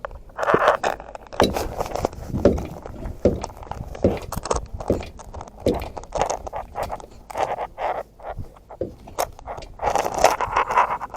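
Irregular metallic clinks, knocks and scrapes of tools and parts being handled during a truck tire change.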